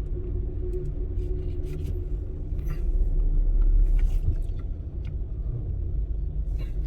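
A car's low, steady rumble as it drives off a chain ferry, growing louder about halfway through, with a few light clicks and knocks.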